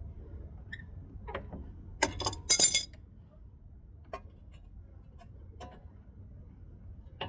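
Metal hand tools and steering parts clinking and clanking, a few sharp strikes about two seconds in, the loudest cluster just after, then occasional single light ticks.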